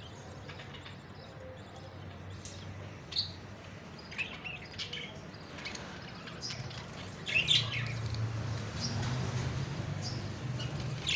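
Parrots chirping: short, scattered high calls every second or so, the loudest a quick cluster about seven seconds in.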